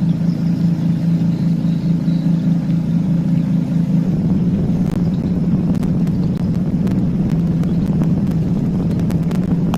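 Small boat's engine running at a steady speed, a constant, even drone.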